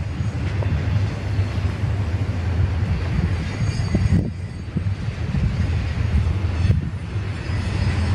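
Double-stack intermodal container train's well cars rolling past on the rails, a steady low rumble with wheel and rail noise.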